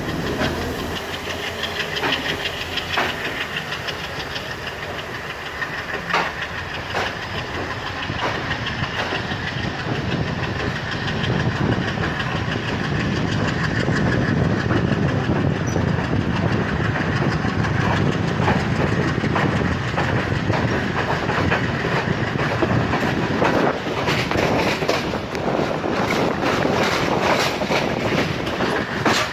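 Passenger train running on the track, with the rumble of the wheels and sharp clicks of the wheels passing over rail joints. The sound grows louder about twelve seconds in and stays up.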